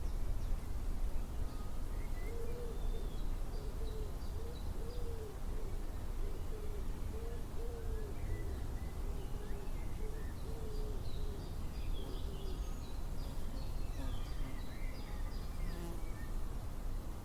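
A long series of short, low hooting notes, about two a second, that starts about two seconds in and stops a few seconds before the end. Faint high chirps of small birds come through, over a steady outdoor rumble.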